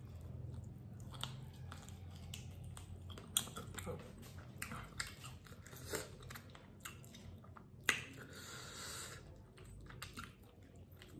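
A person chewing a mouthful of dry-fried masala chicken close to the microphone: soft, irregular clicks and smacks of the mouth, with a couple of sharper clicks. A short hiss of breath comes about eight seconds in.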